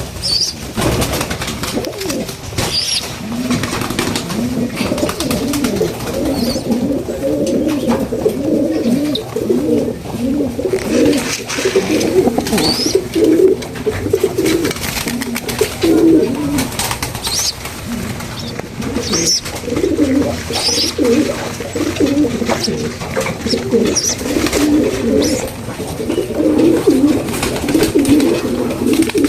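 Several pigeons cooing, many low coos overlapping without a break, with scattered short clicks.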